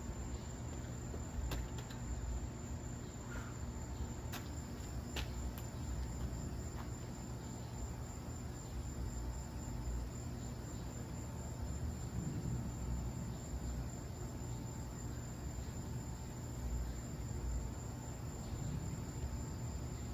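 A cricket chirring in a continuous high, finely pulsing trill, with a low steady hum underneath and a few faint clicks in the first several seconds.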